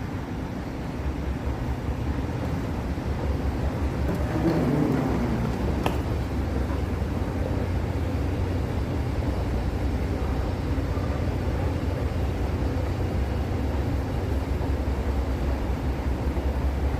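Steady low rumble of a vehicle in motion, with a single sharp click about six seconds in.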